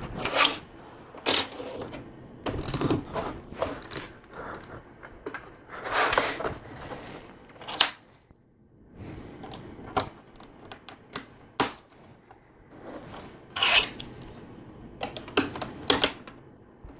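Plastic LEGO pieces being handled and pressed together: irregular clicks, knocks and short rattles.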